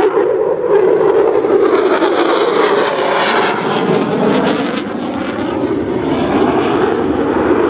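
F-16C fighter jet making a high-speed pass, its jet engine roaring loudly. The sound swells to its loudest and brightest around three to four seconds in, with sweeping changes in pitch as the jet goes by, then eases off.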